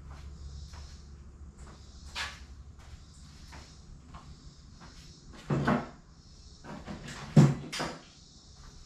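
A few knocks and clunks of things being handled and set down, the loudest a sharp knock about seven and a half seconds in.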